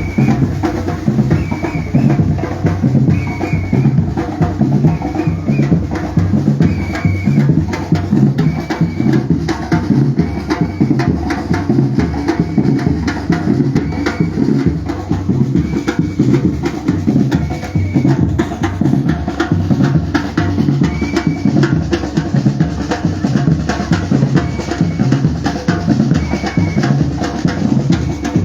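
Batucada street percussion group playing a dense, steady drum rhythm, with bass drums and snare drums together. A short high tone recurs about every second and a half over the drumming.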